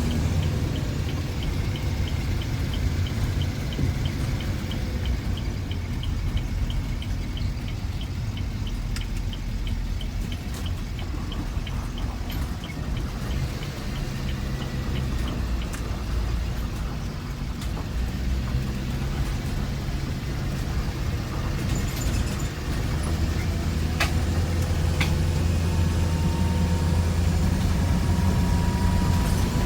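Bus engine running steadily, with a fast regular ticking for the first dozen seconds and a whine that slowly rises in pitch over the last several seconds.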